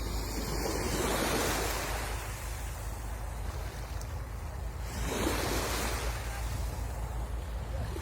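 Sea waves breaking and washing up the shore. Two swells: one just after the start and a sharper one about five seconds in.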